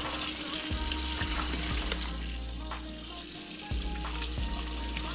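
Water running from a tap into a sink while freshly caught crappie are rinsed and handled to get the slime off them, with a few small clicks and knocks.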